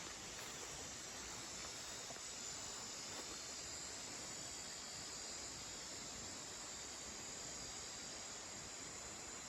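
A steady, high-pitched chorus of insects, like crickets, with faint outdoor background noise.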